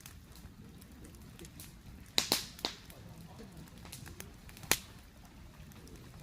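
Wood fire burning vigorously, with a low steady rush of flame and sharp crackles and pops: a quick cluster of three about two seconds in and a single loud pop a couple of seconds later, with fainter snaps between.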